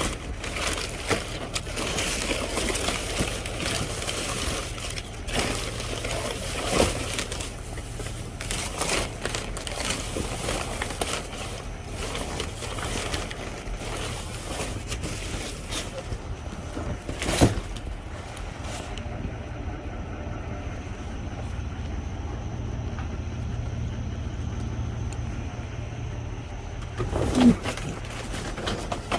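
Rummaging through trash in a dumpster: rustling and clattering of bags and objects being moved, with a couple of sharper knocks, the loudest near the end. The rustling eases off about two-thirds of the way through, leaving a steady low hum.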